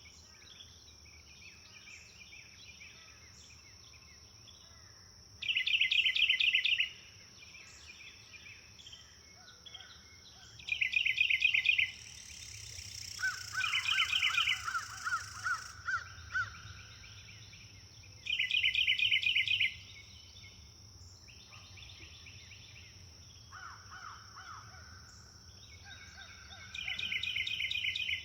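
Birds singing in woodland. One bird repeats a loud, fast trill about every six or seven seconds, four times in all, while softer calls from other birds fill the gaps, including a run of about ten evenly spaced lower notes around the middle. A steady high-pitched tone sounds underneath throughout.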